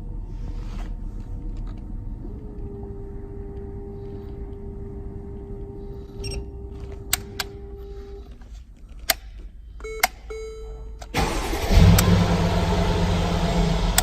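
A steady whine and several sharp clicks, then about eleven seconds in the Mercedes-Benz GL's engine starts and runs steadily: the car brought to life by an emergency start without its key.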